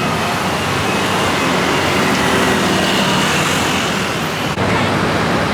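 Steady city street noise dominated by passing road traffic.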